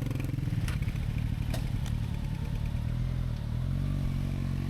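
Motorcycle engine running at low revs, its pitch rising slightly about three and a half seconds in, with a few light clicks.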